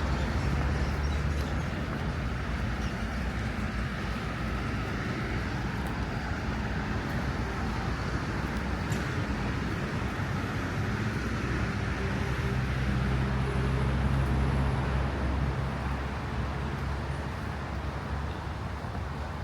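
Steady city road traffic: a continuous rumble of passing vehicles with a low engine hum, swelling a little in the second half.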